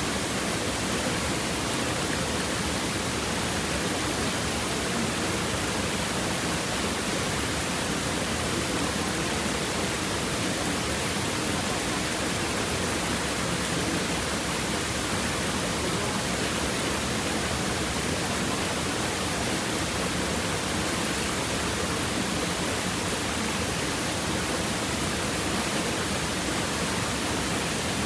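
Water of a stream babbling over rocks in a steady, even rush that does not change.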